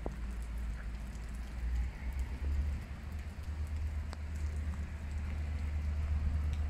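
Rain falling on wet stone paving, an even hiss with scattered drop ticks, over a steady low rumble.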